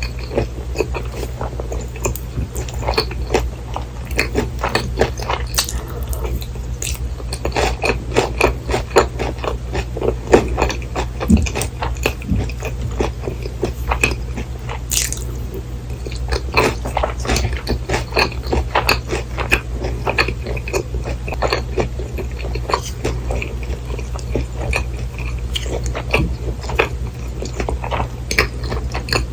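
Close-miked eating sounds: bites and chewing of breaded, deep-fried cheese pork cutlet, with many small crunches and crackles of the crisp coating throughout, over a steady low hum.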